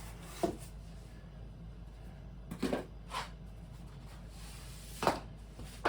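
A few short, quiet knocks and rustles of handling, a second or more apart, over a low steady hum.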